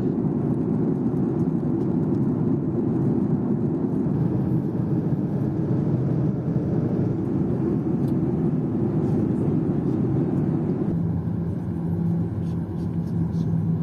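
Steady engine and airflow noise inside the cabin of a Boeing 737-800 with CFM56-7B engines. About eleven seconds in, the higher part of the noise drops away and a steady low hum comes in.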